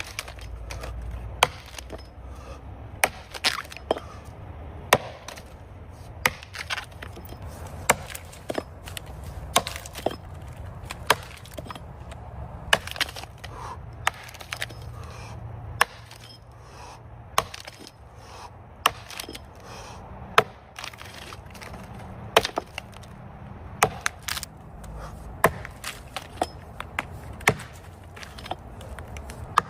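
An axe chopping into the trunk of a large standing tree: a long run of sharp, solid strikes, roughly one a second at an uneven pace, as the felling cut is worked in toward the centre of the tree.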